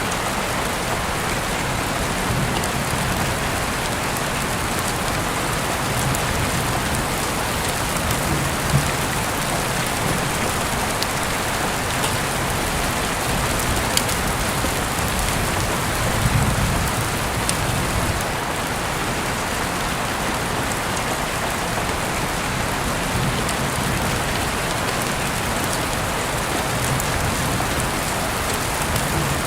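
Steady rain falling on a surface: an even, dense hiss with a few scattered sharp ticks.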